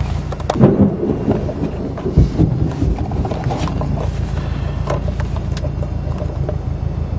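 Car engine idling, heard from inside the cabin, as a steady low hum. Over it come a few knocks and rough rumbles, loudest about a second in and again around two seconds in.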